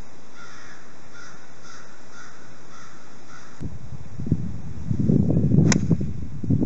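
A bird calls about six times in a short series, roughly two calls a second. About three and a half seconds in, this gives way to wind buffeting the microphone, and near the end comes a single sharp click of a golf club striking the ball.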